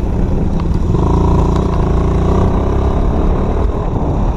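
Dirt bike engine running under throttle while riding, with a steady engine note standing out from about a second in, over a dense rumble of wind on the microphone.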